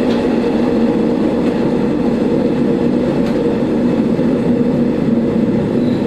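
Diesel railcar running, heard from inside the car: a steady engine drone with a low hum, mixed with running noise.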